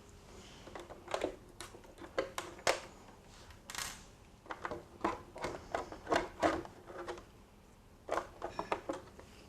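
The plastic body of a 1/8 scale RC monster truck being taken off by hand: a string of irregular clicks, snaps and light knocks as it is unclipped and lifted.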